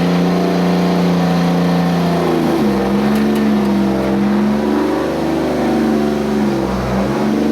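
Car engine running at steady revs, dropping briefly and settling at a higher pitch about two and a half seconds in, then shifting again near the end.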